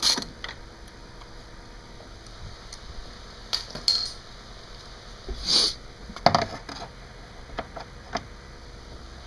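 Hand tools clinking against metal: a last ratchet stroke at the very start, then a few scattered short metallic clinks and taps, the loudest about six seconds in, as nuts are worked off.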